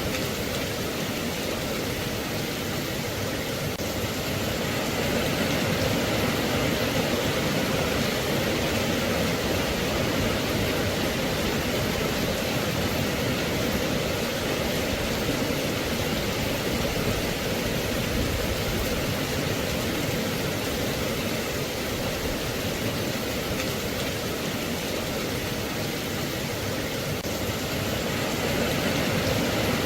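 Steady rain, an even hiss with no single drops or impacts standing out, swelling slightly a few seconds in and again near the end.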